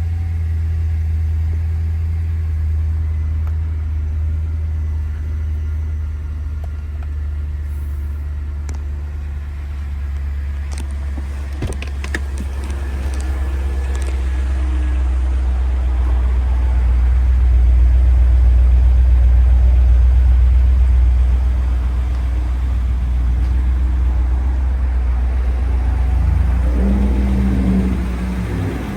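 2002 BMW M5's 4.9-litre S62 V8 idling after a cold start, a steady low rumble that swells louder for a few seconds past the middle.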